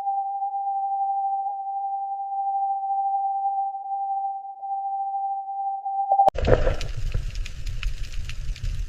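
A steady electronic tone held at one pitch, like a beep or test tone. It cuts off abruptly about six seconds in and gives way to a low rumbling noise with scattered crackles.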